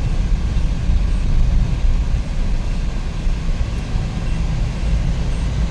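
Steady engine and road rumble inside the cabin of a Suzuki Every DA64V minivan cruising on the highway, its freshly rebuilt K6A three-cylinder engine running evenly with no distinct knocks or other events.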